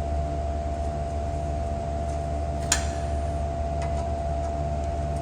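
Steady electrical hum with a constant whining tone from shop equipment. A single sharp metal click comes about halfway through and a fainter one a second later, as hardware is fitted together by hand.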